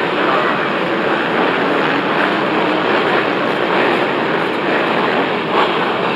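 Many motocross bikes' engines running together, a loud, steady, dense drone.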